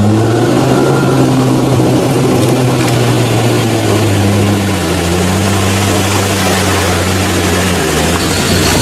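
Off-road 4x4 engine running under load, its revs rising and falling slowly.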